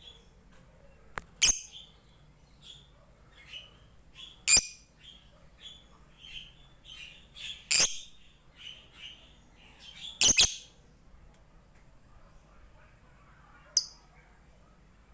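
Lovebird calling: five sharp, shrill chirps spaced a few seconds apart, with a string of softer chirps between them.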